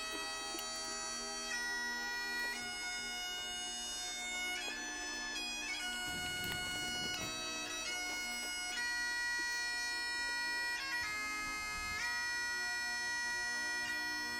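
Bagpipe music: a melody in long held notes that step from one pitch to the next over a steady drone.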